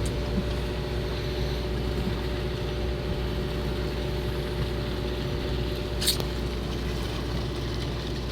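A fishing boat's machinery running with a steady hum, with one sharp click about six seconds in.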